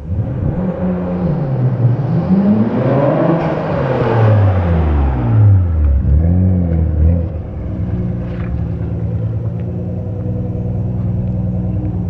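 Nissan Skyline R32 GT-R's twin-turbo RB26 straight-six revving up smoothly over about three seconds and dropping back, then a shorter blip of revs, before settling into a steady idle.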